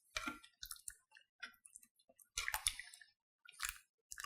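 A utensil stirring and probing through thick soup in a Dutch oven: faint, irregular clicks against the pot and brief wet squelches.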